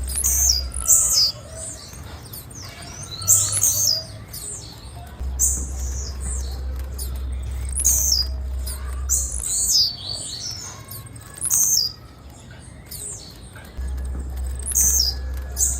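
Female blue-black grassquit (tiziu) calling: short, high chirps, often in pairs, every second or two.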